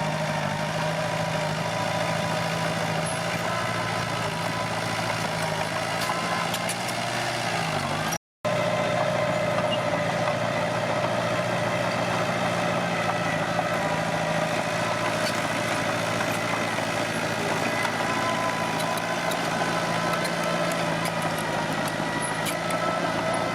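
Komatsu D21P bulldozer's diesel engine running steadily. The sound cuts out for an instant about a third of the way through.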